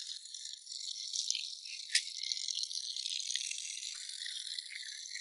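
Clear mountain spring water trickling and splashing, a thin steady hiss, with a single sharp click about two seconds in.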